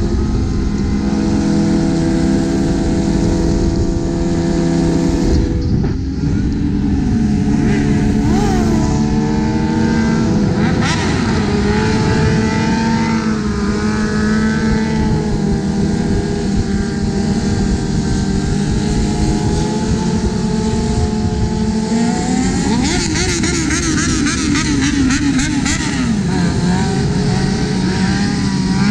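Sport-bike engines running at highway speed over a constant rushing noise, with revs rising and falling several times, most clearly about a third of the way in and again near the end.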